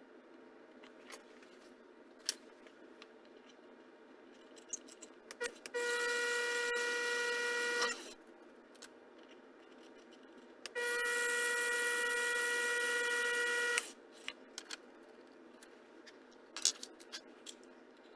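A small electric motor runs twice, about two seconds and then about three seconds, a steady whine that starts and stops abruptly, with light clicks and taps around it.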